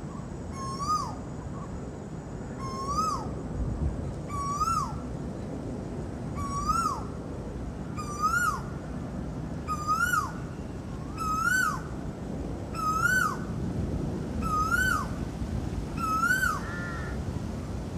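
Asian koel giving its repeated two-note ko-el call, about ten calls roughly one every one and a half seconds. Each call rises and then drops sharply, and the series creeps slightly higher in pitch as it goes on. A low steady rumble runs underneath.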